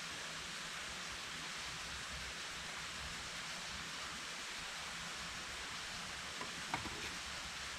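A steady, even hiss of outdoor noise, with one short click near the end.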